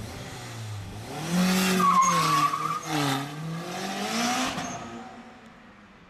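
Turbocharged Honda K20Z3 2.0-litre four-cylinder accelerating hard, its pitch climbing and dipping as it runs through the revs. A brief high squeal comes about two seconds in, and the engine note fades away near the end.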